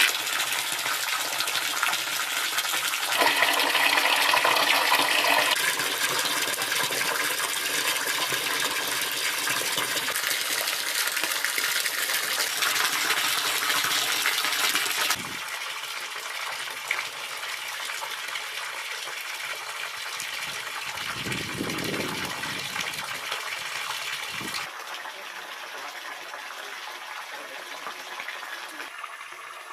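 Rushing water pouring and splashing, a steady noisy flow that changes character abruptly about 3, 15 and 25 seconds in and grows quieter toward the end.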